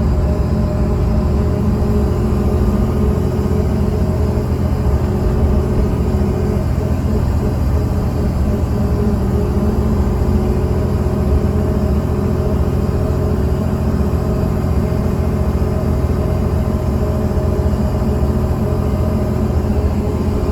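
Mercedes-Benz O307 city bus running steadily, its diesel engine's low rumble with a steady hum, heard from inside the passenger cabin.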